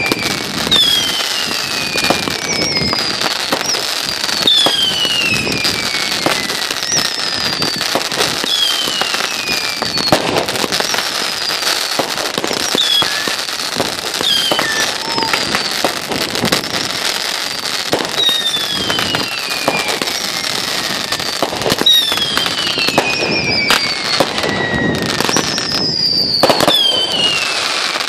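Fireworks going off in a steady barrage: whistles falling in pitch follow one another every second or two, among many sharp pops and crackles.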